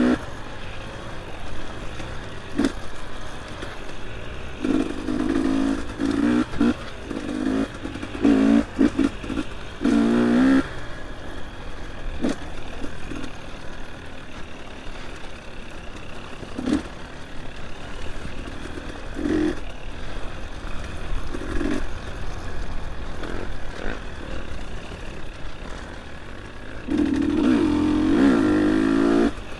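Dirt bike engine revving in short throttle bursts, rising and falling in pitch, with a quieter stretch through the middle and a longer hard pull near the end. Scattered knocks and clatter from the bike working over rough single track.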